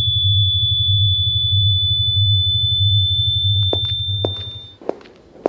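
Designed electronic noise: two steady high-pitched sine tones over a low hum that pulses about every 0.6 s, meant to make the listener feel the hearing symptoms of superior semicircular canal dehiscence syndrome. The tones and hum fade out near the end, as regular footsteps begin about three and a half seconds in.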